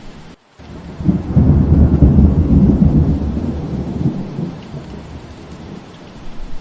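Steady rain hiss with a long roll of thunder: a low rumble that builds about a second in, peaks, and dies away over a few seconds. There is a brief dropout in the audio about half a second in.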